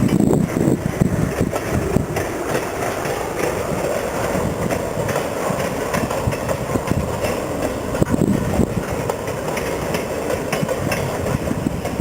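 Ferromex freight train running past, a steady rumble of wheels on the rails with occasional clicks.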